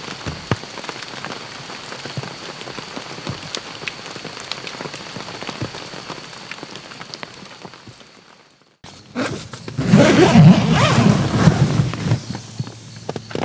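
Rain falling on a camp tarp: a steady patter sprinkled with sharp single drop hits, fading out about eight seconds in. After a moment of silence, a much louder, rough, unidentified noise takes over.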